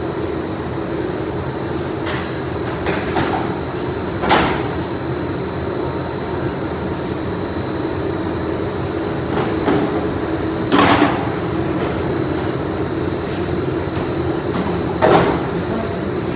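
Pipe-factory machinery running with a steady hum and a constant high whine, broken by sharp knocks or clanks about four, eleven and fifteen seconds in.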